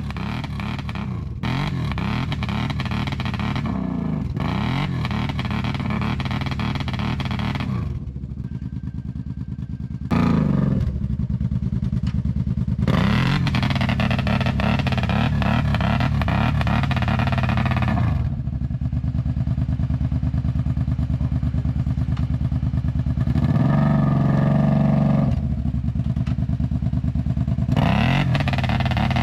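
ATV engine running under load on a muddy trail, its pitch rising and falling as the throttle is worked. The sound changes abruptly several times.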